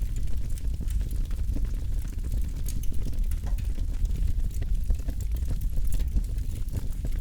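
Wood campfire burning with a low steady rumble of flames and frequent small crackles and pops scattered throughout.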